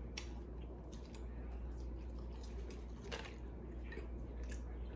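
Close-miked chewing of a bite of ham and cheese croissant with the mouth closed: soft chewing with a few faint mouth clicks, over a steady low hum.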